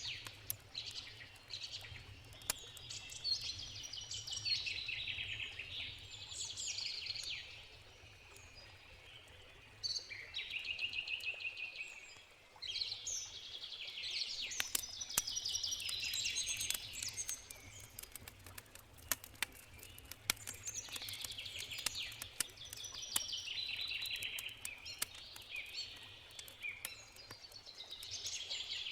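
Songbirds singing busily in rapid, overlapping trilled phrases, with brief lulls. Underneath, a campfire crackles in sharp scattered pops over the low steady rush of a river.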